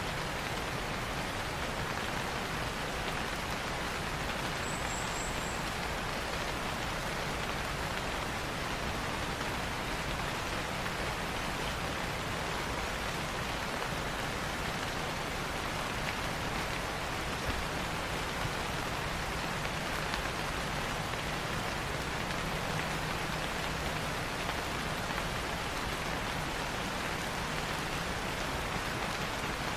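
Steady rain falling, an even continuous hiss with no breaks.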